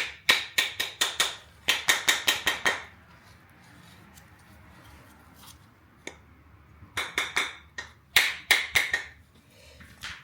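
Four quick runs of sharp metallic clicks or taps, six to eight strokes each, two in the first few seconds and two more about seven seconds in, with quiet gaps between.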